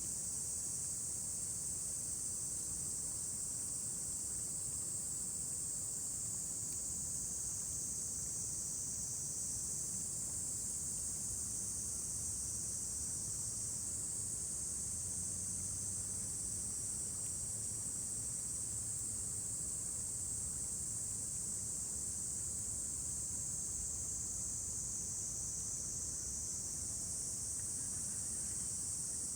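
Insects singing in a steady, high-pitched chorus that goes on without a break.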